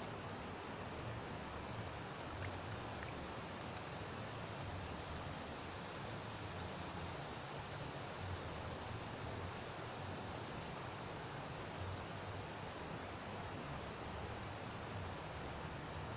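Steady rush of flowing river water, with a constant high-pitched insect whine over it and a faint, pulsing insect trill that comes and goes three times.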